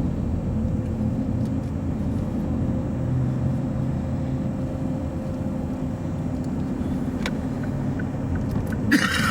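Steady low rumble of a car driving along, heard from inside the cabin, with a short hiss near the end.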